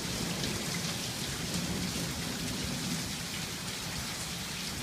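Heavy thunderstorm rain pouring steadily onto a flooded street, an even hiss of rain on water and pavement.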